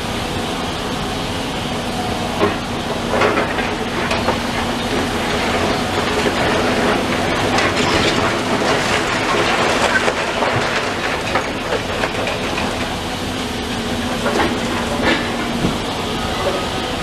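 Heavy demolition machinery running steadily, with a long spell of crunching and clattering debris that builds in the middle and dies away near the end.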